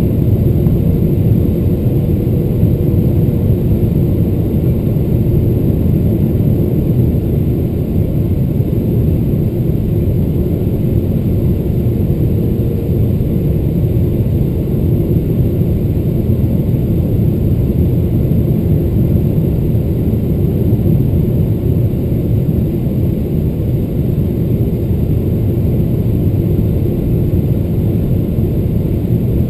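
Steady cabin rumble of a Boeing 777-300ER, with the noise of its GE90-115B engines and the airflow heard from inside the cabin, low and unbroken.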